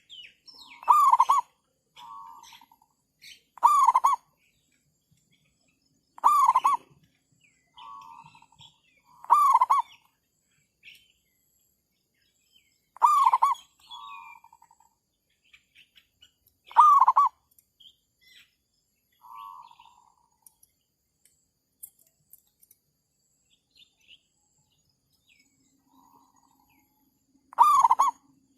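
Zebra doves calling: a short, loud coo repeated every three to four seconds, most followed by a softer rolling trill, with a pause of several seconds near the end.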